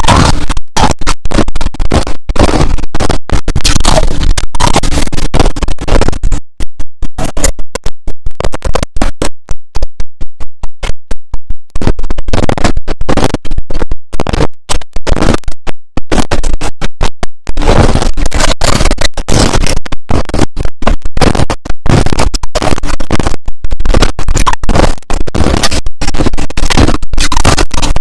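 Close-miked crunching of clear and powdery crushed ice being chewed: a fast, dense run of loud crunches, sparser and softer for a stretch in the middle.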